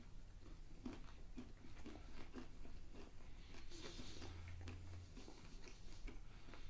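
Faint chewing of a walnut, date and pumpkin-seed trail mix: soft, irregular crunches a few times a second.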